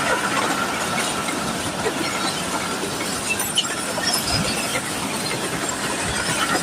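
Train running past at speed: a steady rumble and rattle of wheels on the rails, with a faint steady high tone over it.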